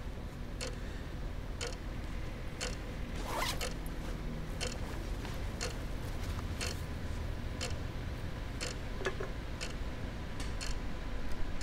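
A backpack zipper being opened and the bag handled, with light clicks and knocks about once a second over a steady low room hum.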